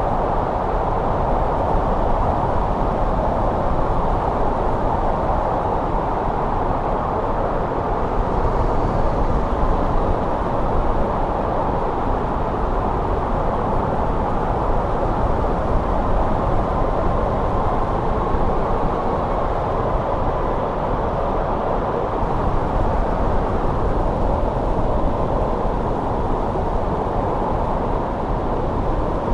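Winter wind blowing steadily: an even, low rushing noise with a faint wavering whistle partway through.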